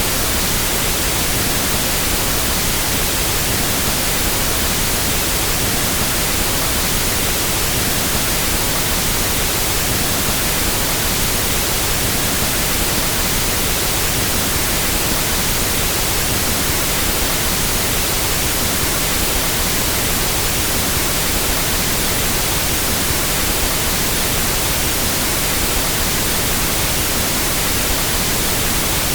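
Steady pink noise test signal for equalizing sound systems: an even hiss across the whole range, constant in level.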